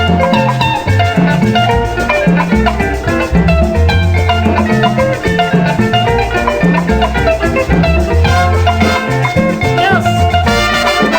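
Instrumental break of a Tanzanian dance-band song: guitars playing interlocking lines over a bass line and drums, with no singing.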